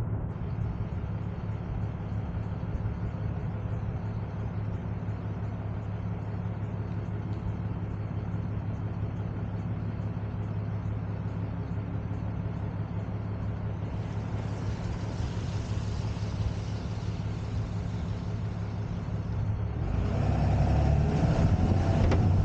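Tow truck engine running steadily with a low hum. About twenty seconds in, a louder rush of wind and road noise comes in.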